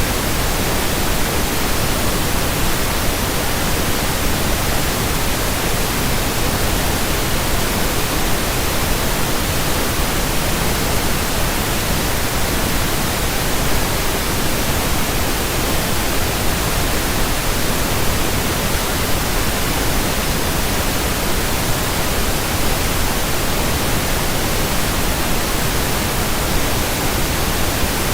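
Steady pink noise: an even, unchanging hiss spread across the whole range from low to high.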